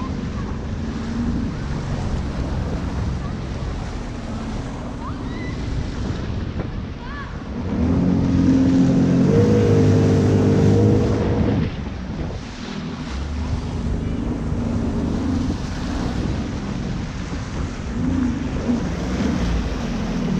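Jet ski engine running over wind noise on the microphone and rushing water, getting louder for a few seconds about eight seconds in before easing back.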